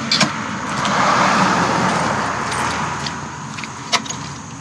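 A vehicle passing on the road: its noise swells about a second in and fades away, with a couple of short clicks.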